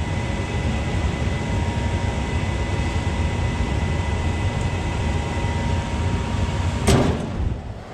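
Gas furnace running with its circulating blower on: a steady rushing air noise under a faint motor hum. About seven seconds in there is a sharp click, and the hum stops and the sound drops off.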